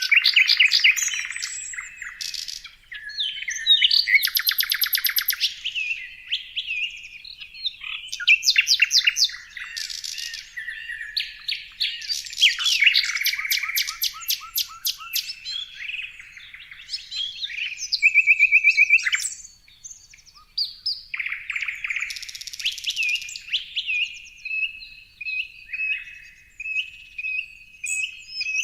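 Several songbirds singing and chirping over one another in a dense, varied chorus of rapid trills, short chirps and whistles.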